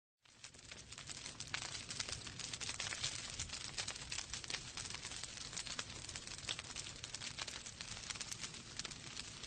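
Fireplace fire crackling: a dense run of sharp snaps and pops over a low rumble, cutting in a moment after the start.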